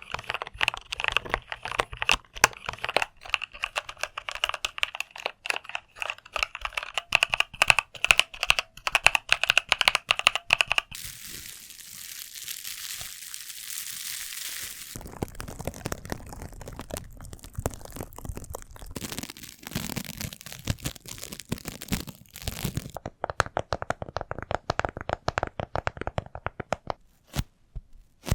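Close-miked ASMR triggers: dense, rapid crackling and crinkling, broken about eleven seconds in by roughly four seconds of steady hiss, then crackling again.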